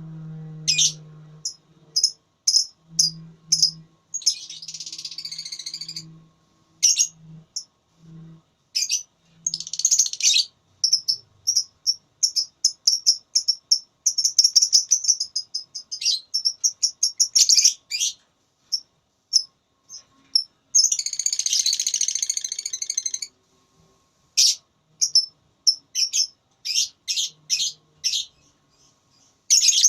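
Lovebird singing its long, rapid chattering 'ngekek' song: high-pitched runs of quick repeated notes, broken a few times by harsh, buzzy bursts lasting a second or two.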